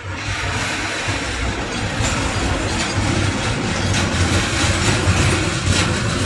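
A train passing close by, loud, its wheels clacking over the rail joints from about two seconds in, over a steady low rumble.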